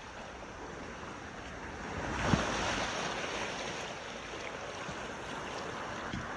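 A steady rush of water, swelling about two seconds in and then holding.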